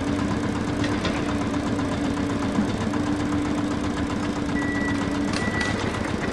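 Toy JCB backhoe loader running, a steady engine-like hum as it drives out of a muddy puddle. A thin high tone comes in about four and a half seconds in.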